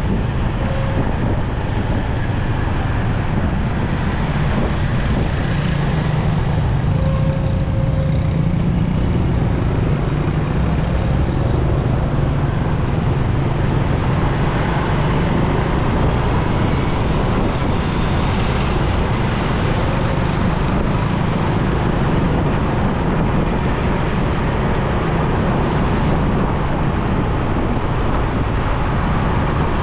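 Motorcycle running steadily on the road in traffic: steady engine, tyre and wind noise, with other traffic around it.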